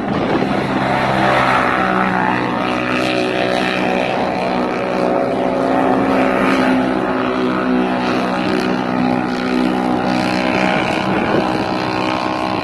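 Quad bike engine running steadily, its pitch holding roughly level with slight rises and dips. It starts abruptly in place of wind noise.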